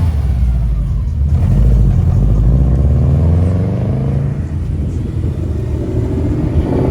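Car engine running with a deep rumble, its revs rising and falling.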